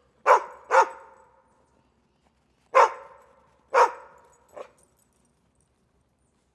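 A dog barking: two barks close together, a pause of about two seconds, then two more and a quieter fifth, each bark trailing off in an echo.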